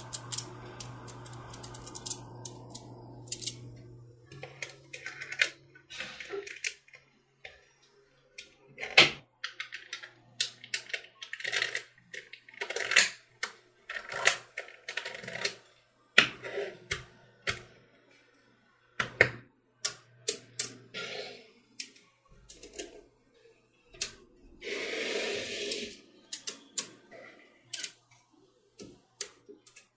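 Small magnetic balls clicking and snapping against each other, in irregular sharp clicks as they are pulled apart and put together, with a short rustling stretch near the end.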